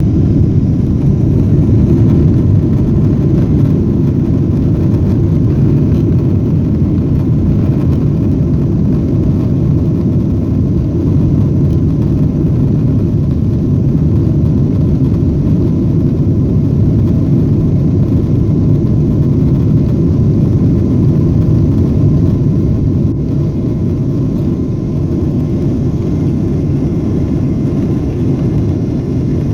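Boeing 777-200ER jet airliner's steady low rumble, easing slightly a little over 20 seconds in.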